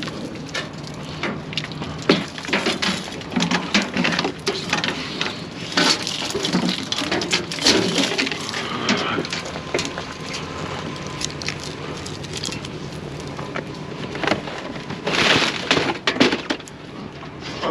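Irregular crunching, cracking and clattering of discarded junk being handled and shifted, with a steady low hum underneath.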